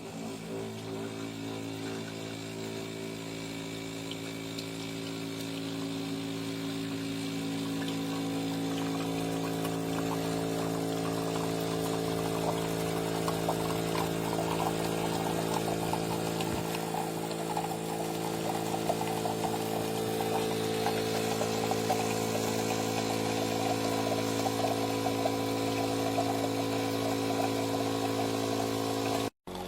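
Automatic espresso machine running its pump as coffee is dispensed: a steady mechanical hum that grows a little louder over the first several seconds, with a crackling liquid sound joining it from about ten seconds in.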